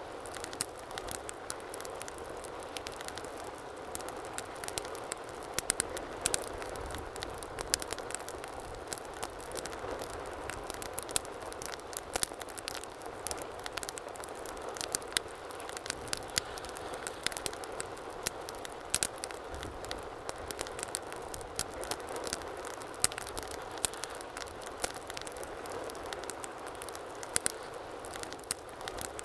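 Wood fire burning steadily in a fireplace, a low hiss of flames with frequent sharp crackles and pops scattered irregularly throughout.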